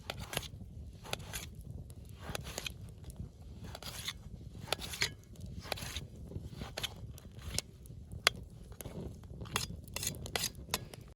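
Knife cutting onions, a string of irregular short cutting strokes with small clinks of the blade.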